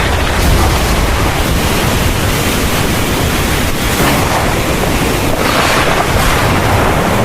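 Heavy rain pouring steadily in a thunderstorm, with a constant low rumble underneath and a brief hiss swelling about five seconds in.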